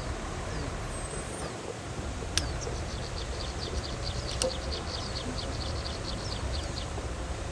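Low, steady rumble of heavy-machinery engines. A bird's rapid chirping series, about five chirps a second, comes in about three seconds in and runs to near the end, and two sharp clicks fall between them.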